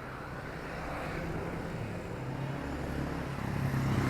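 Street traffic: a motor vehicle's engine running and growing louder toward the end as it approaches.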